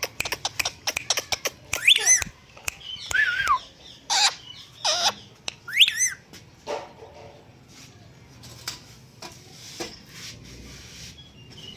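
Indian ringneck parakeet calling: a quick run of clicks, then several loud whistled calls and squawks that glide up and down. After about six seconds only soft scattered clicks remain.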